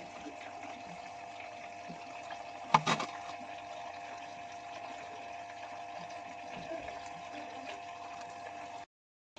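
IFB front-load washing machine running after its drum bracket repair: a steady whine and hum with water sounds, as the pump moves water. One sharp knock comes about three seconds in, and the sound cuts off suddenly near the end.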